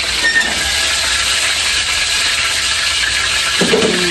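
Food sizzling steadily in hot oil in a wok on a gas stove.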